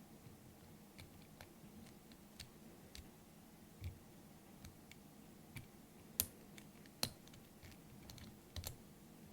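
Faint, irregular small clicks and ticks from a lock pick and tension wrench working the pins of a door knob's pin tumbler lock, with two sharper clicks a little past halfway and a quick double click near the end.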